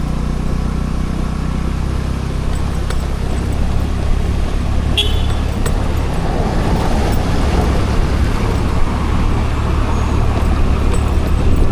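Scooter riding downhill: its engine gives a steady low hum under wind and road noise, which grows somewhat louder from about six seconds in. A brief high chirp comes about five seconds in.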